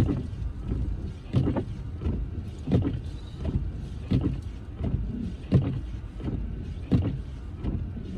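Car windscreen wipers running against falling snow, with a knock about every second and a half as each sweep ends. Under them is the steady low rumble of the car driving.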